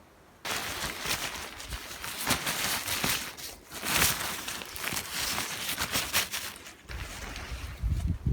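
Footsteps crunching through snow, an irregular walking rhythm of crisp crunches that starts abruptly about half a second in, with a deep thump at the very end.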